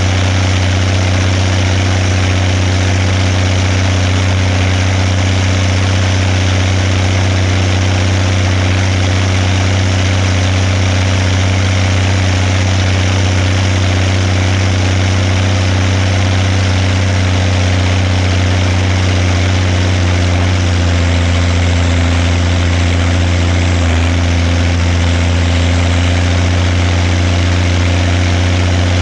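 Zetor 16145 tractor's six-cylinder turbocharged diesel engine idling steadily, with a slight change in its note about two-thirds of the way through.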